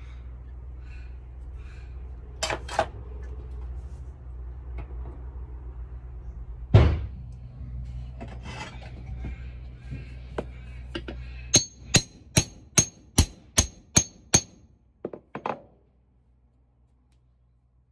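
Hammer blows on a bolster chisel, working to split a seized rubber suspension cone from its steel trumpet. There are a few scattered knocks and a heavy thump, then a quick run of about eight ringing metal strikes, roughly three a second, and two softer knocks. A low steady hum underlies the first part and stops just as the fast strikes begin.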